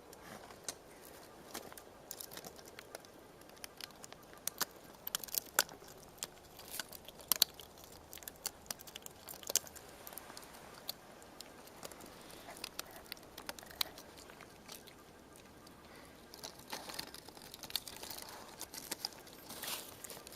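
A dog making a strange noise: irregular sharp clicks and crackles, some much louder than others, coming in clusters through the middle and again near the end.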